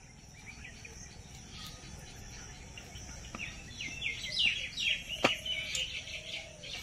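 Small birds chirping in quick runs of short, high chirps that grow busier about halfway through. A single sharp click about five seconds in.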